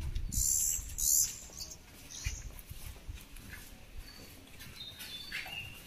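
Birds chirping: a few short, high chirps in the first second and a half, then thin whistled calls near the end.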